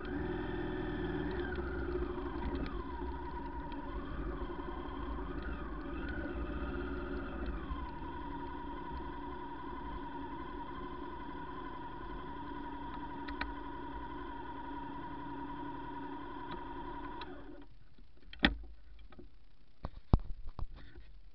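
Motorcycle engine running, its pitch rising and falling over the first several seconds as the revs change, then settling to a steady idle. The engine cuts out about three-quarters of the way through, followed by a few sharp knocks.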